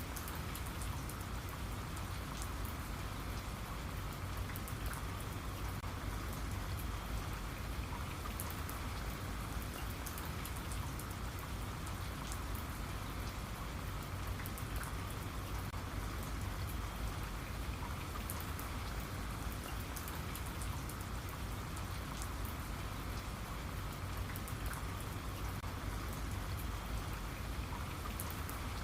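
Steady rain, an even hiss of falling drops with many small drop ticks over a low rumble.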